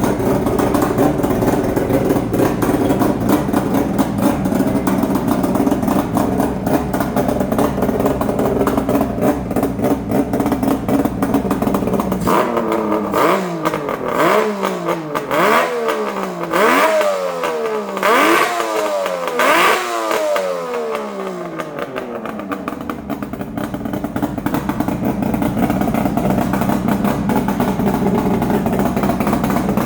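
Suzuki GT750 two-stroke three-cylinder engine breathing through a Zenshin collector exhaust, idling steadily, then blipped about five times in quick succession, each rev rising and falling back. It then settles to a steady idle again.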